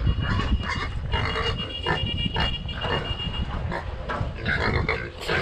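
Pig grunting in a run of short, irregular grunts, a few each second. A thin, steady high-pitched tone runs behind it for the first few seconds.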